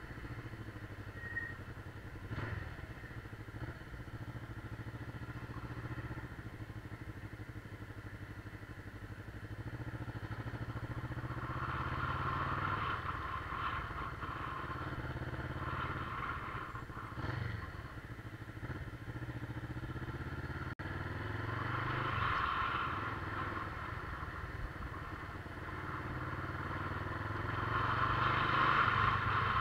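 Motorcycle engine running while riding, its sound swelling and easing several times and growing louder near the end.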